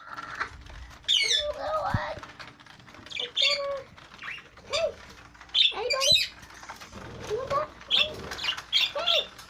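Many small birds chirping and squawking, with short overlapping calls throughout.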